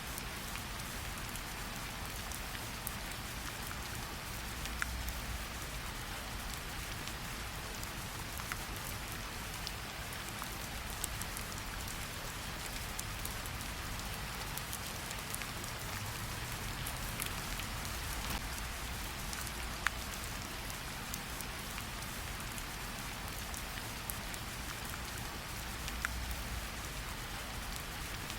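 Gentle rain falling on tree leaves: a steady patter with scattered sharper drips, over a faint low rumble.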